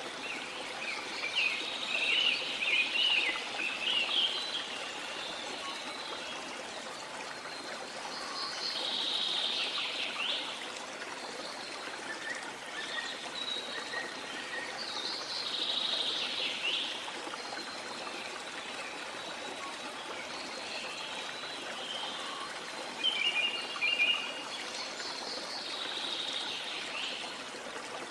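Sea water washing steadily, swelling roughly every seven seconds as waves come in, with small songbirds chirping over it in quick high bursts, loudest in the first few seconds and again near the end.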